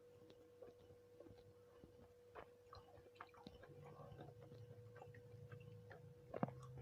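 A person chewing nasi kucing softly, with scattered small wet mouth clicks and one sharper click near the end. A faint steady hum runs underneath.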